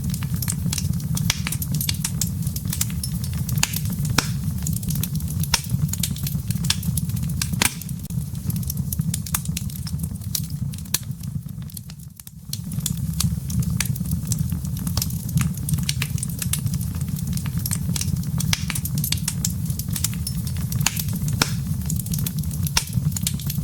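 Wood fire burning in a fireplace: dense, irregular crackles and pops over a steady low rumble of flame. The sound dips briefly about halfway through, then comes back.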